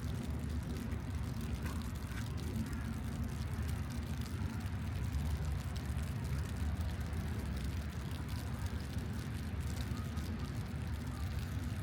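City street ambience: a steady low rumble of traffic with faint scattered ticks over it.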